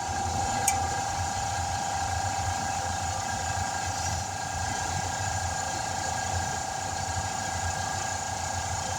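A motor running steadily: an even high whine over a low hum, with no change in speed.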